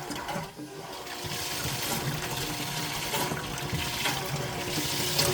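Small electric water pump running in a bucket, water rushing and splashing steadily with a faint motor hum under it; the flow dips briefly about half a second in, then runs on evenly.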